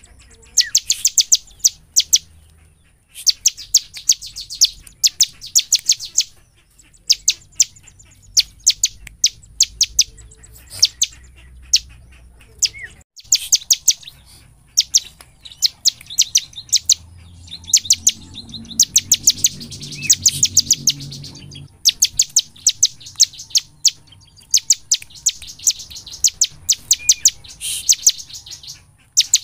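Bar-winged prinia (ciblek) singing in full voice: repeated bursts of rapid, high-pitched notes, each burst a second or two long, with short pauses between.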